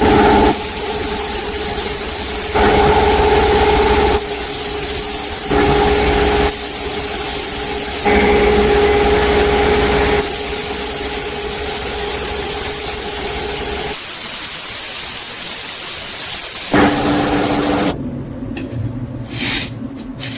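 A power tool running with a steady hum under a loud hiss that shifts in strength every second or two. The hum drops out about 14 seconds in, and the hiss cuts off suddenly about 18 seconds in, leaving quieter, uneven sounds.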